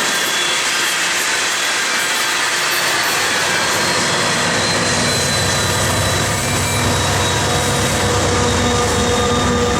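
Coal train cars rolling past on the rails: a steady rush of wheel and rail noise, with a deeper rumble and a low hum building from about halfway through.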